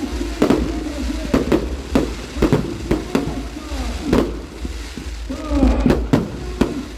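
Fireworks going off: a rapid irregular series of sharp bangs, roughly two a second, over a continuous low rumble.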